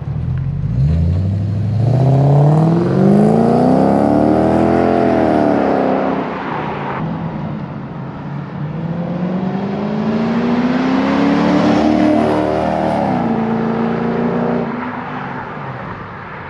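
Lexus LS400's 1UZ-FE V8 engine through a custom exhaust with two 2.5-inch Vibrant mufflers and no X- or H-pipe, revving up twice. The pitch climbs for about four seconds and drops, then climbs again and falls back to a steady run near the end.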